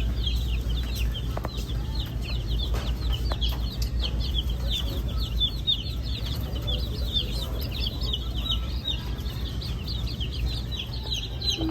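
Many baby chicks peeping at once: a dense chorus of short, high, falling peeps, over a steady low hum.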